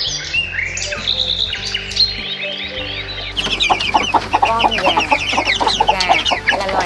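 Small birds chirping over soft background music. About three and a half seconds in, a flock of chickens takes over with dense, overlapping clucking and calling.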